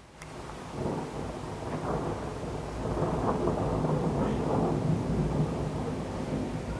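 Thunder rumbling during a severe thunderstorm, swelling about a second in and staying loud, with rain falling.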